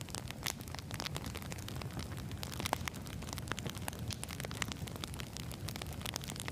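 Campfire of burning wood logs crackling: a steady low rumble of flames with frequent sharp pops and snaps, one louder snap near the middle.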